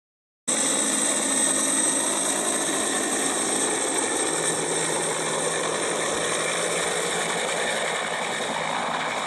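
A steady mechanical running noise, engine-like, that cuts in abruptly about half a second in.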